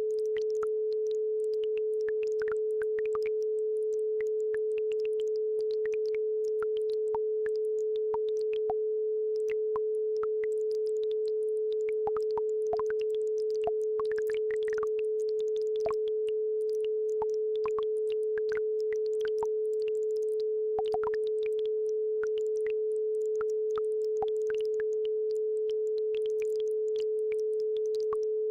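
A steady, unbroken 432 Hz sine tone, the track's base frequency, over a faint babbling brook whose trickles and drips come through as scattered soft ticks.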